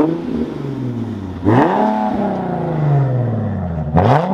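Parked car's engine revved three times. Each rev jumps up quickly and then winds slowly back down toward idle.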